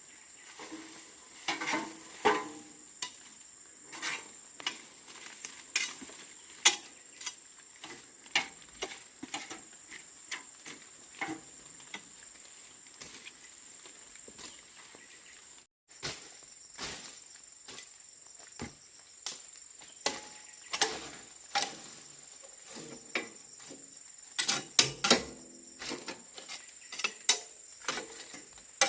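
Insects (crickets) chirring in a steady high band under many irregular sharp clicks and knocks of handling, loudest in a cluster near the end.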